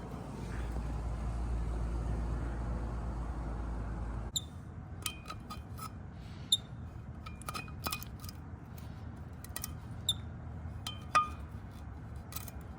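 Small metal propeller parts of an outboard motor clinking as they are handled and set down: a dozen or so sharp, ringing clinks spread over the second half. Before that, a low wind rumble on the microphone cuts off abruptly about four seconds in.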